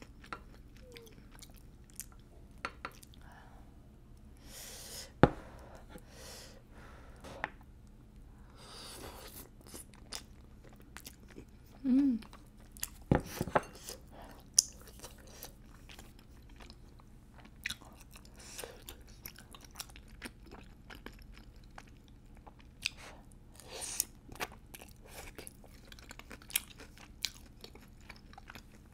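Close-miked chewing of chewy Korean rice cakes (tteokbokki) in sauce: irregular wet mouth clicks and smacks, with occasional crunches and a brief hum of the voice about twelve seconds in.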